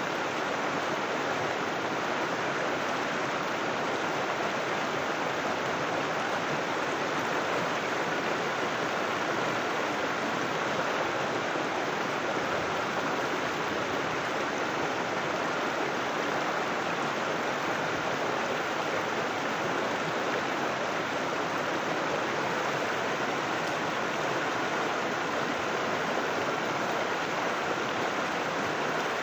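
River water flowing over rocks, a steady rushing and splashing without pauses.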